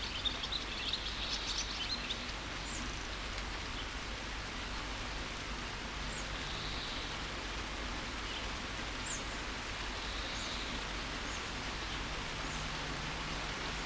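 Steady rain with birds chirping: a quick flurry of high chirps in the first two seconds, then scattered single chirps over the rain.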